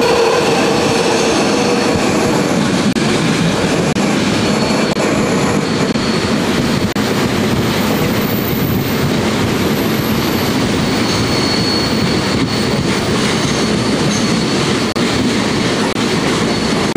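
Flåm Railway train running along the line, heard from inside a passenger carriage: a steady rumble of wheels on rail, with a faint high wheel squeal that comes and goes on the curves.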